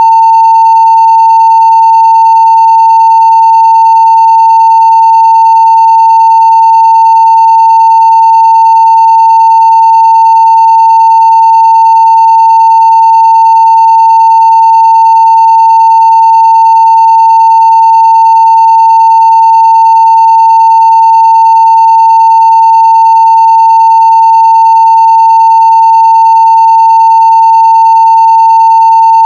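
Steady 900 Hz sine-wave test tone at full scale (0 dB): one loud, unbroken, unchanging pitch.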